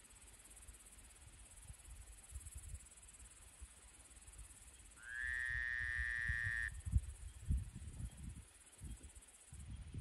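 Insects chirring with a steady high-pitched buzz, over uneven low rumbles. About halfway through, a single held tone of unknown source sounds for about a second and a half, sliding up briefly at its start; it is the loudest thing heard.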